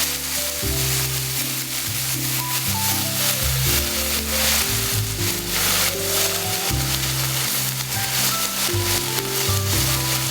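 Food sizzling in a frying pan: a steady hiss throughout, with background music of held notes underneath.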